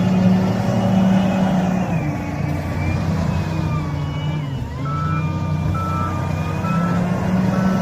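Diesel engine of an SDLG wheel loader working, its revs dipping about halfway through and then rising again. From about five seconds in, a reversing alarm beeps in an even on-off pattern.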